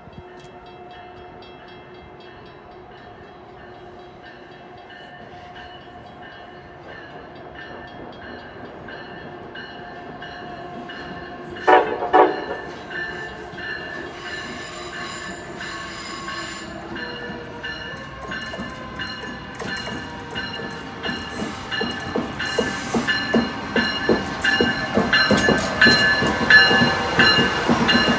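Amtrak train led by a Siemens ACS-64 electric locomotive approaching and passing, sounding a short horn signal about twelve seconds in. Its sound grows steadily louder, ending in the close rush and rapid wheel clatter over the rail joints as the locomotive goes by.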